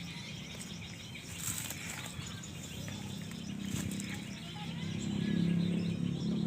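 Garden ambience with faint small-bird chirps, and a low steady droning hum that grows louder about two-thirds of the way in.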